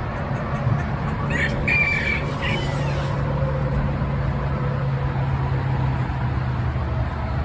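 Domestic fowl giving a few short calls about a second and a half to three seconds in, over a steady low hum.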